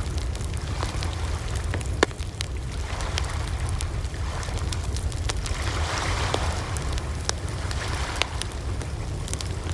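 Campfire crackling, with many sharp pops and snaps over a steady low rumble and soft rushing of the flames; the loudest pop comes about two seconds in.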